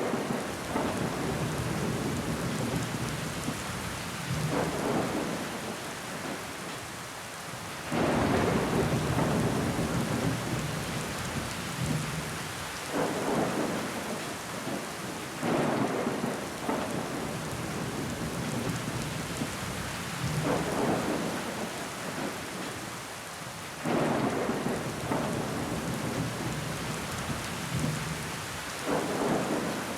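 Steady rain falling against window glass, a constant hiss with louder swells every few seconds.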